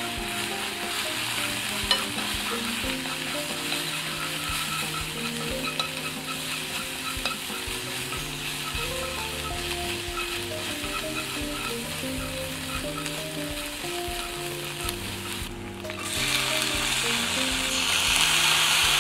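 Scrambled egg and green onion sizzling in an oiled frying pan as it is stirred with wooden chopsticks. The sizzle grows louder near the end, once fried tofu is in the pan.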